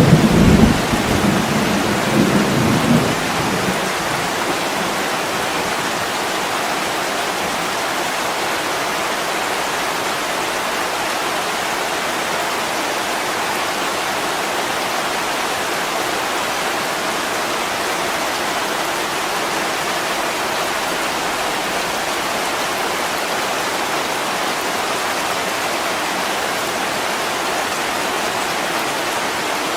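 Heavy rain pouring steadily on a window, with a low rumble of thunder in the first few seconds that dies away.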